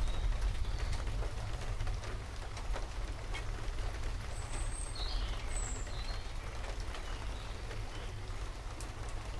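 Steady rain with a continuous low rumble underneath, and a few short high bird chirps about halfway through.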